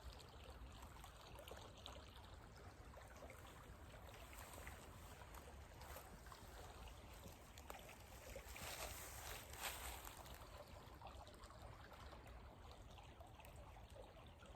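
Faint, steady trickle of a small creek's flowing water, swelling slightly a little past the middle.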